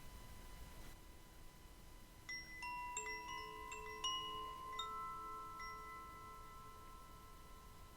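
Metal chimes ringing: a quick cluster of bright struck notes at several pitches begins about two seconds in. The notes overlap and sustain, slowly fading.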